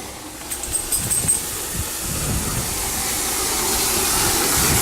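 Water running into a bucket as it fills: a steady rushing hiss that grows gradually louder, with a few light knocks about a second in.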